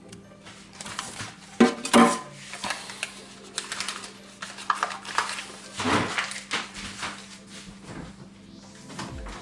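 A metal spoon knocking and scraping against a dish as margarine is spooned into milk: a series of clinks and clatters, loudest about two seconds in and again about six seconds in.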